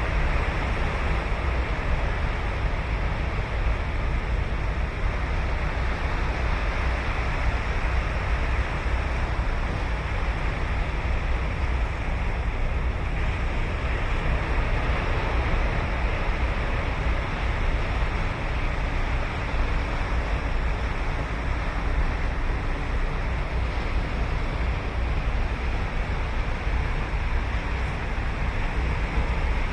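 Ocean surf on a beach: a continuous wash of breaking waves with a deep rumble underneath, steady and without distinct single crashes.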